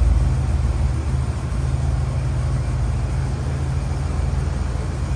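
Car engine running steadily on fast idle shortly after a cold start, a steady low hum.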